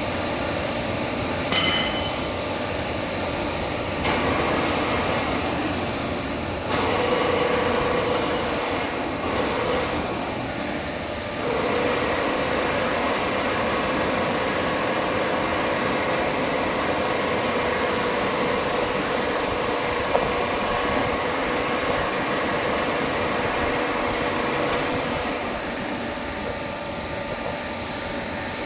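Large vertical turret lathe running, a steady mechanical rumble with a held tone through it. A single sharp metallic clink rings out about two seconds in.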